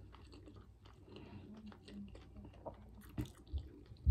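A person chewing a mouthful of fried flounder sandwich, with many small wet mouth clicks and a couple of sharper clicks about three seconds in and at the very end.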